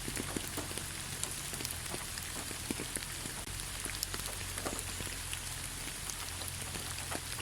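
Steady light rain falling on leaves, with many separate drops pattering irregularly over a constant hiss.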